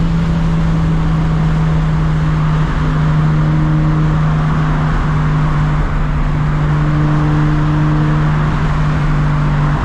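Turbocharged Toyota Supra Mk4 inline-six running at a steady cruise on the highway, a constant low exhaust drone that barely changes pitch, over road and wind noise.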